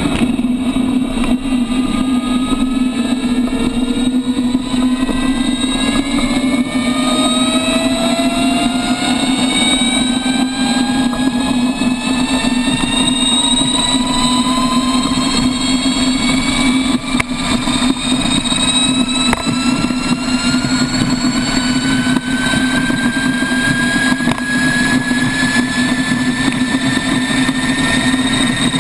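Motorcycle engine accelerating steadily in one gear, its pitch rising slowly and evenly with no gear change, over a steady low drone.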